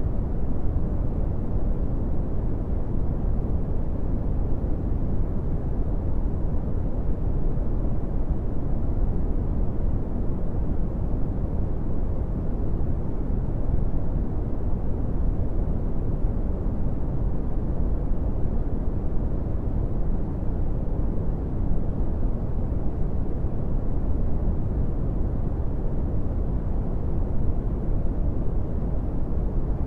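Brown noise: a steady, deep rumbling hiss, loudest in the bass and fading off toward the treble, with no changes.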